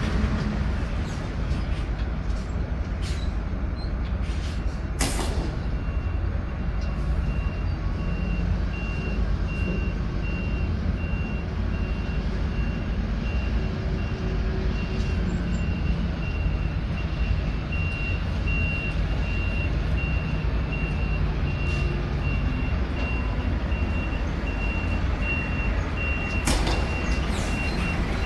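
Lorry's reversing alarm beeping steadily over the low running of a diesel truck engine, as a truck reverses into a loading bay. A sharp bang comes about five seconds in, and another knock near the end.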